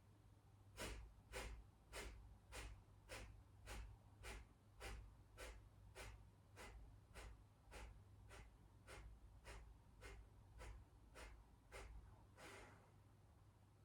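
Kapalabhati breathing: about twenty short, forceful exhales pumped out through the nose, faint and evenly paced at a little under two a second, ending near the end with one longer full exhale that empties the lungs.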